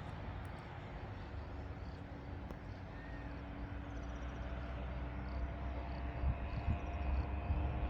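Outdoor mountain ambience: a low, steady rumble like wind on the microphone under a faint steady hum, with a short bird chirp about three seconds in.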